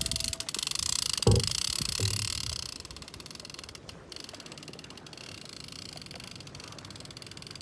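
Fishing reel being cranked with a fast, fine clicking, with a sharp knock a little over a second in; the cranking stops after about three seconds, once the leader is up, leaving only faint hiss.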